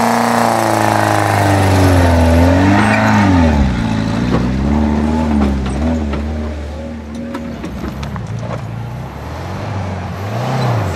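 Car engine pulling hard under load up a steep rocky climb, its revs rising and falling repeatedly as the driver works the throttle. It fades a little later on, and near the end an engine revs up again.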